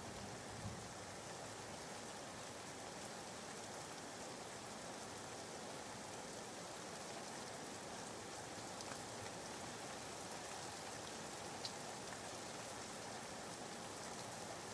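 Soft, steady rain falling, laid in as background white noise, with a few faint drop ticks.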